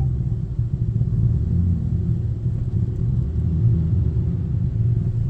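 Steady low rumble of a car being pulled through an automatic tunnel car wash, heard from inside the car with its roof open.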